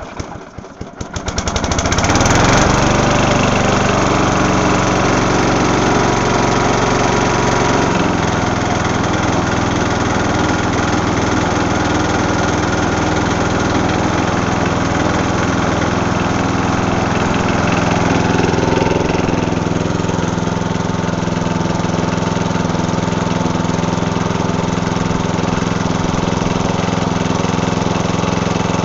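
Murray 12 hp riding mower engine being cold-started at 19°F: the starter cranks it over for about a second and a half, then it catches about two seconds in and runs steadily. About eight seconds in its speed drops slightly and it settles into a steady run.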